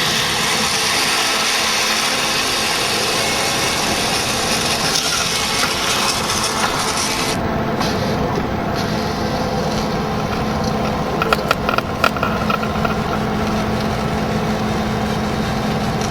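Horizontal directional drilling rig running steadily under load, with a rubbing, scraping mechanical noise. The upper hiss drops away abruptly about halfway through, and a short cluster of sharp clicks comes about three-quarters of the way through.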